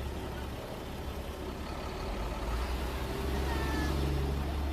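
Low, steady rumble of a vehicle engine running, with a pitched hum coming up and growing louder from about three seconds in.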